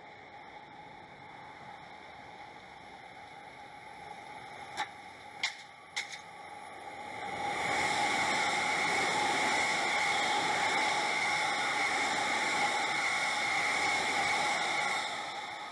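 A silver JR West commuter electric train passing close by: the noise of its wheels on the rails swells up about halfway through, stays steady for about seven seconds while the cars go by, and fades near the end. Three sharp clicks come shortly before it arrives.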